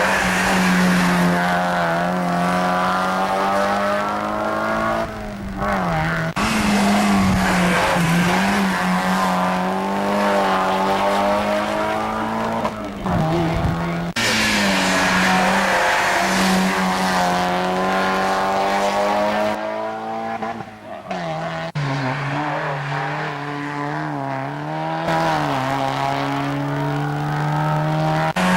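Mazda MX-5 race cars' four-cylinder engines running hard at high revs, the pitch held high with brief dips and swells as the drivers lift and shift. The sound changes abruptly several times.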